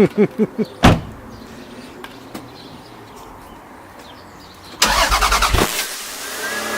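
Toyota MR2 engine being started: the starter cranks in quick even pulses that end with a sharp knock about a second in, then near the end the engine catches with a loud burst of revs and settles to a fast idle, sounding unlike a standard MR2.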